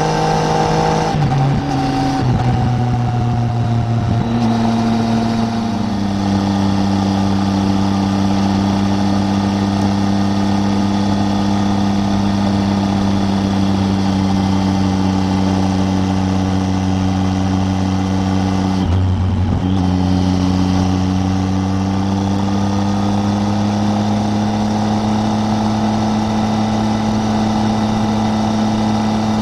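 Triumph Tiger 800's three-cylinder engine under way, heard from on the bike: its pitch steps through a few gear changes in the first several seconds, then holds a steady cruise. There is a brief dip in the engine note near the middle, and the pitch climbs slowly towards the end.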